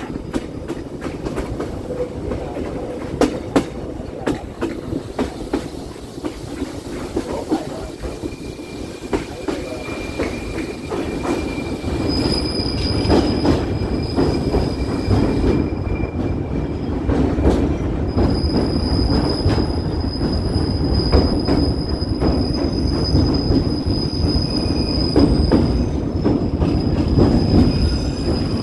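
Passenger train running on the rails, with a steady rumble and scattered rail-joint clicks. From about twelve seconds in, its wheels squeal in high steady tones that hold on and off to the end.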